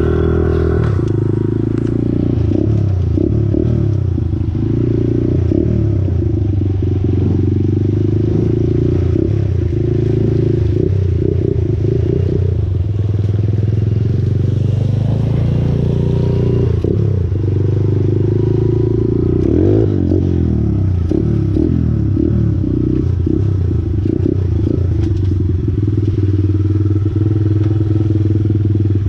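Small off-road motorcycle engine running at a fairly steady speed, with a few brief wavers in pitch.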